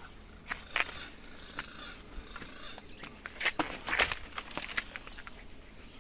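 Insects chirring steadily at a high pitch, with scattered crackles of footsteps through dry leaves and twigs, loudest about four seconds in.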